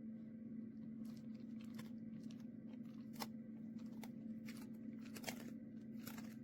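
A dog chewing crunchy food: faint, irregular crunches and clicks begin about a second in, over a steady low hum.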